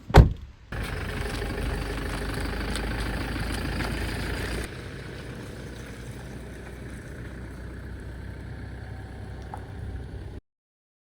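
A vehicle door thuds shut, then a Toyota Land Cruiser's engine runs steadily at idle; it drops in level about four and a half seconds in and cuts off abruptly near the end.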